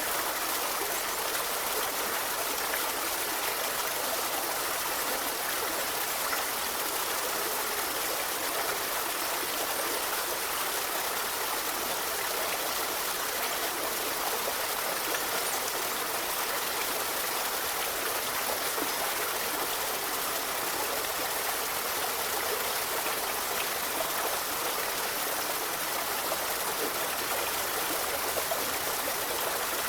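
A river running steadily, a continuous rushing of flowing water with a fine trickling hiss.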